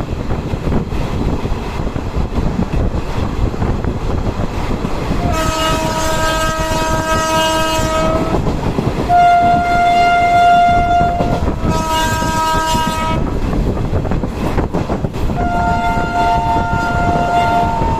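Train running with a steady rumble and rail clatter, while a train horn sounds four long blasts spread through the stretch, the second on a different pitch from the others.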